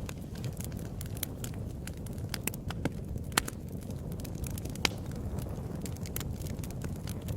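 Wood fire crackling in a fireplace: a steady low rumble of flames with frequent small crackles and two louder pops a little before and after the middle.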